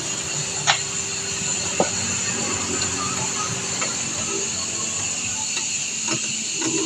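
Steady hiss with two sharp metallic clicks about a second apart near the start, then a few faint taps.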